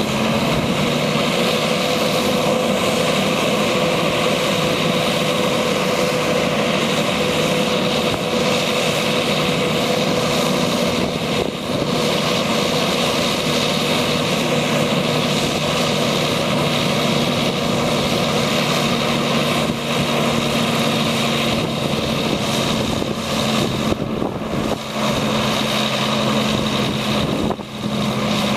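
Diesel engine of a 1997 International 2674 truck running steadily, with a steady high whine over its drone.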